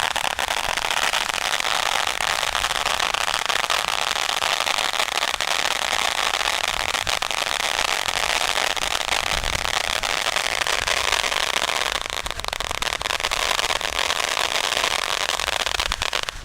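Fireworks crackling densely and steadily, a continuous rapid patter of small pops.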